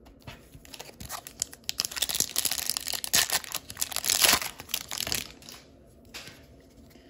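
A hockey card pack wrapper being torn open and crinkled. The dense crackling starts under a second in, is loudest in the middle, and stops about five seconds in.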